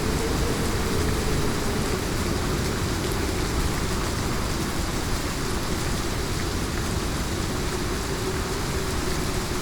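Heavy rain falling steadily, with a low, even rumble underneath and no thunderclap.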